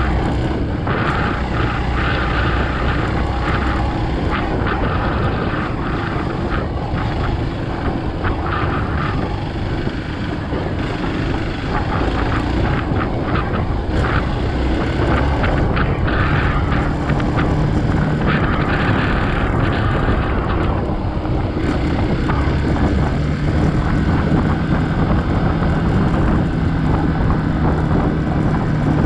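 Hero Xpulse 200 motorcycle's single-cylinder engine running under way on an off-road ride, its note shifting in pitch with the throttle.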